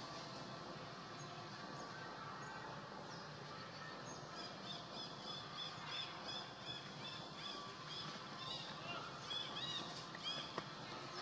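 A bird chirping repeatedly, short high notes about twice a second, starting about four seconds in and growing louder near the end, over a steady outdoor background hiss.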